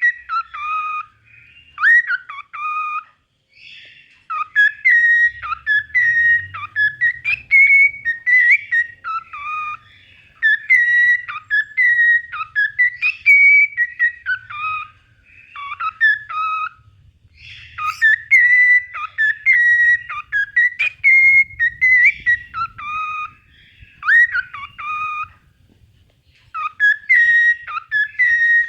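Cockatiel whistling its song: quick runs of clear whistled notes with rising and falling glides, pausing briefly a few seconds in and again near the end.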